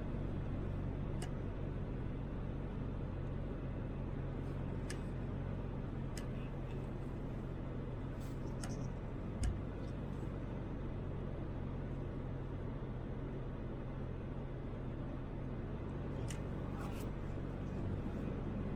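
Toyota Land Cruiser 80 driving on the road, heard from inside the cabin: a steady low engine hum under even road and tyre noise, with a few faint ticks and one low thump about nine seconds in.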